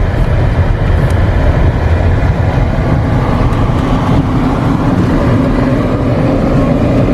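Vehicle driving over a bumpy road: loud, steady low rumble of tyres and engine, with a steady engine hum setting in about three seconds in.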